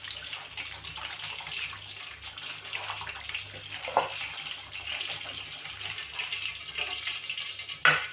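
Hot oil sizzling and crackling around chicken momos in a kadai, just after the gas has been turned off. A single sharp knock comes near the end.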